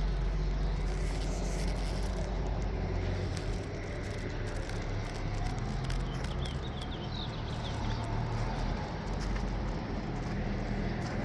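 Caterpillar 3406 inline-six diesel engine of a 1990 Peterbilt 379 idling with a steady low hum.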